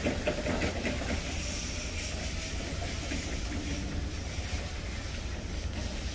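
Wood fire burning hard in a downdraft wood stove: a steady rushing hiss over a low rumble, with a few sharp crackles in the first second.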